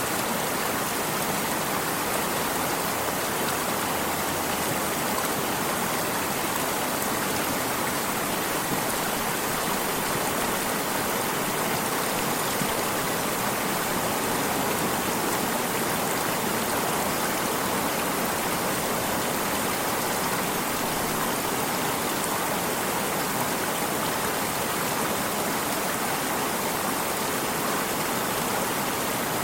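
Flowing water stream: a steady, even rush of running water that does not change.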